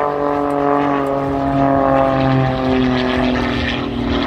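Pitts S2 aerobatic biplane's piston engine and propeller running steadily, the drone's pitch falling slowly.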